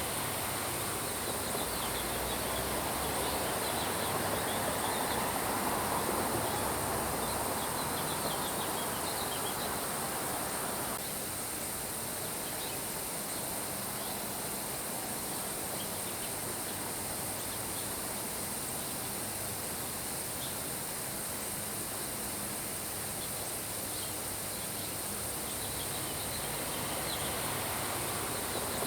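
Steady rain, easing a little about a third of the way through, under a constant high insect drone and scattered short bird chirps.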